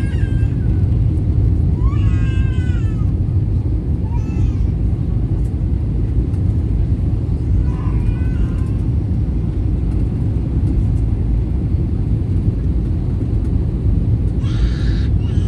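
Steady low rumble of an Airbus A321neo's cabin noise. Over it, a few short, high-pitched cries in a small child's voice come at intervals, and there is a brief hiss near the end.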